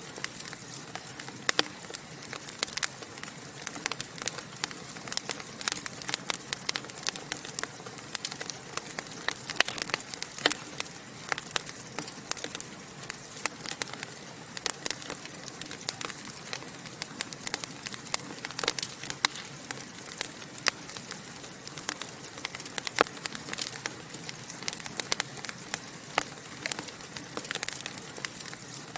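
Wood fire in a fireplace crackling and popping: irregular sharp snaps, several a second, over a steady hiss of burning.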